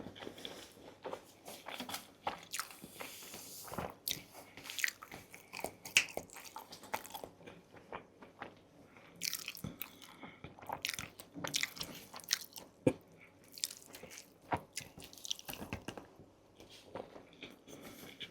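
Close-miked eating: irregular bites, crunches and chewing, with a few sharp snaps standing out about six and thirteen seconds in.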